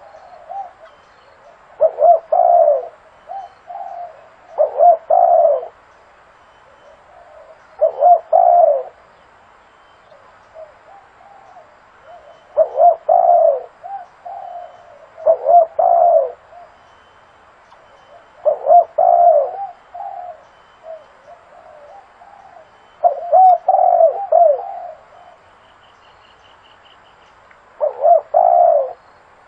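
Spotted dove cooing: a repeated multi-note coo phrase about every three seconds, with softer coos in between. The call is the kind used to lure doves to a decoy.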